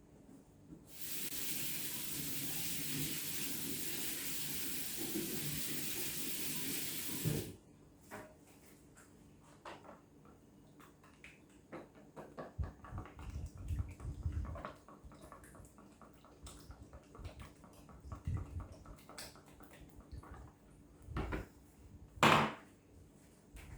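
Kitchen tap running steadily for about six seconds, then turned off abruptly. Scattered small clicks and knocks follow, with one sharp knock near the end.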